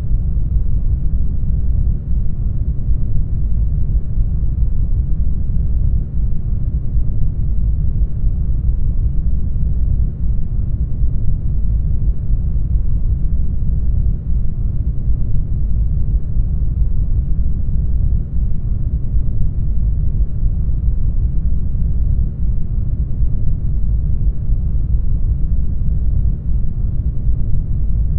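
Brown noise: a steady, deep hiss, heaviest in the bass and thinning toward the treble, with a brief slight dip in level about every four seconds.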